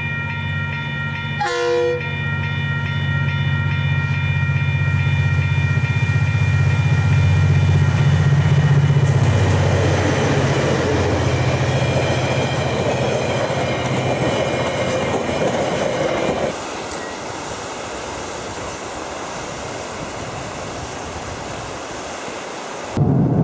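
A held chord of several steady high tones over a low droning rumble, with a rushing noise building up through the middle. The sound changes abruptly about two-thirds of the way through and again near the end.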